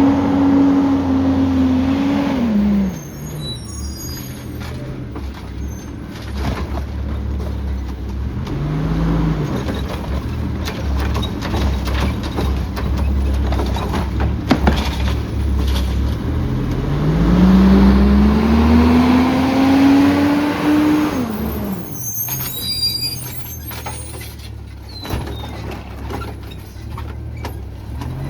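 Autocar ACX automated side-loader garbage truck working its route. Its engine runs steadily and twice revs up, holding a rising pitch for several seconds before dropping back, as it drives the hydraulic arm. Knocks and clatter come in between, with air-brake hisses and squeaks near the end.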